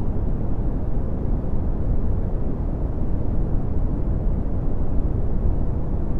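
Red (Brownian) noise: a steady, deep rumbling hiss with most of its energy in the bass and little above a few hundred hertz.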